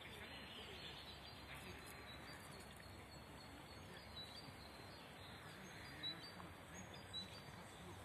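Faint background hiss with small birds chirping now and then in the distance, and a couple of soft bumps near the end.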